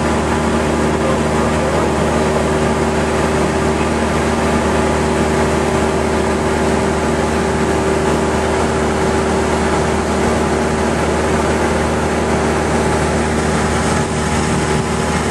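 Cessna 172's piston engine and propeller running steadily as a constant drone, with a slight dip in level near the end.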